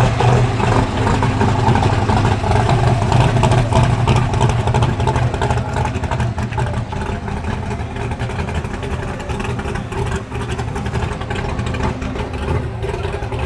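A car engine running steadily close by, with a deep exhaust note that holds one pitch and gets a little quieter about halfway through.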